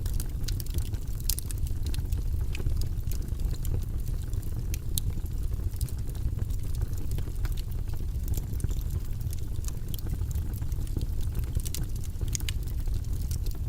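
A steady, deep white-noise track runs throughout, with scattered light clicks over it.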